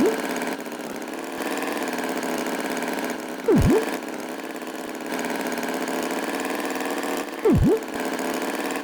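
A steady engine hum runs throughout, its pitch unchanging. Three times, about four seconds apart, a short loud swooping effect drops steeply in pitch and springs back up.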